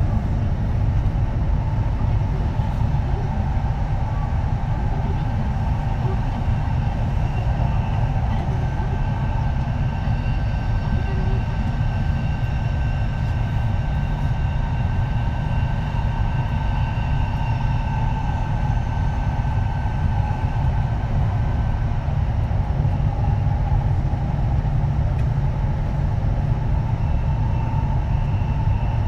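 Kintetsu 3220 series electric train running, heard from inside the car: a steady rumble of wheels on rail with a faint multi-tone whine from its Hitachi IGBT VVVF inverter and traction motors. The whine holds level and fades out about two-thirds of the way through.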